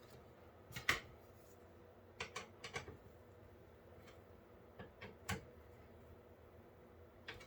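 Scattered sharp clicks and taps of metal and plastic PC case hardware being handled and fitted. The loudest comes about a second in, a quick run of three or four follows around two to three seconds, then a couple more around five seconds and one near the end.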